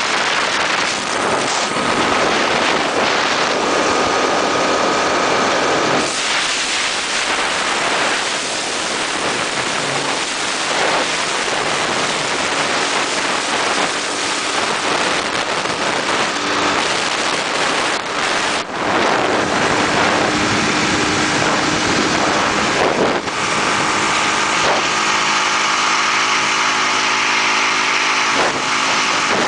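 Road vehicle engine running at speed, with loud rushing wind and road noise over it. A steady engine note shows through more clearly near the end.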